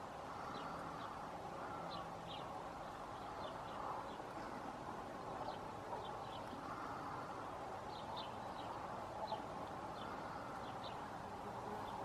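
Faint, short high chirps of small birds, about one a second, over a steady background rush that swells now and then.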